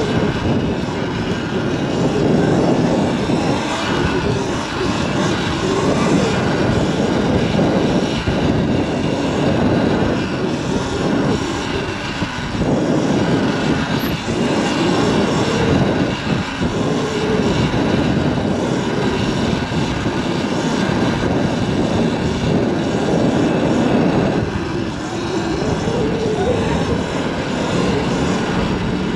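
Several gas dirt-bike engines running and revving together in a continuous loud drone, their pitches wavering and overlapping.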